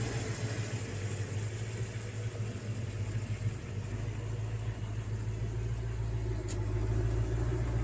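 A steady low mechanical hum, like an engine idling, with a deeper rumble building from about halfway through.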